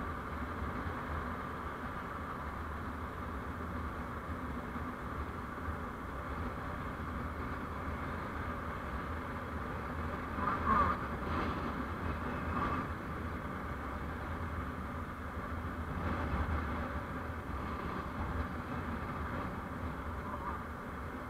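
Steady road and engine noise of a vehicle on the move, recorded by a dash camera, with a brief louder swell a little past halfway.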